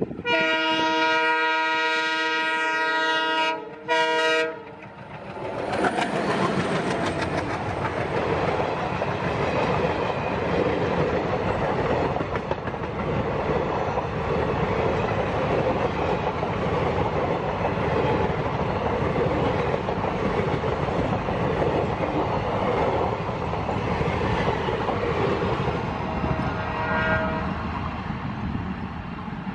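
A WDM3D diesel locomotive's air horn sounds one long blast and then a short second one. The locomotive and its coaches then pass, with wheels clattering over the rail joints, the noise slowly fading as the train draws away. A brief, faint horn sounds again near the end.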